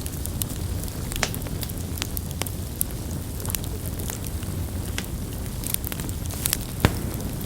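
Campfire burning: a steady low rumble of flames with irregular crackles and pops of burning wood, one sharper pop a little before the end.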